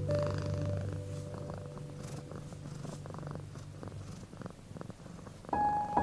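Cat purring in a low steady rumble that slowly fades, with a wood fire crackling in small clicks. Held piano notes die away at the start, and new piano notes come in near the end.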